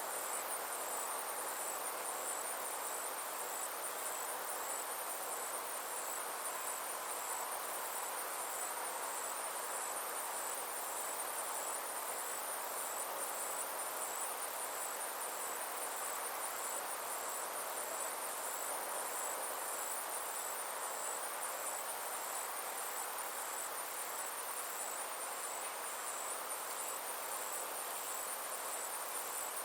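A steady chorus of summer insects: a high-pitched trill pulsing rapidly and evenly, over a soft even hiss.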